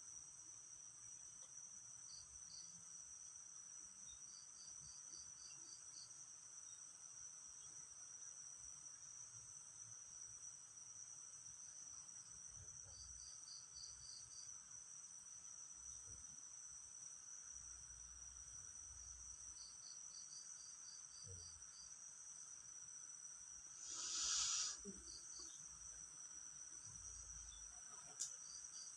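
Insects chirping: a steady high-pitched drone, with another insect breaking in every few seconds with short runs of rapid chirps. About 24 seconds in there is a brief, louder rustling burst, and near the end a single sharp click.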